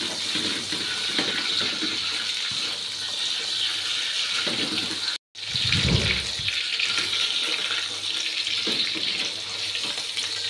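Chicken, shallots and garlic sizzling in hot oil in a stainless steel wok, a steady hiss with the scrape of a spatula stirring now and then. The sound cuts out for an instant about five seconds in.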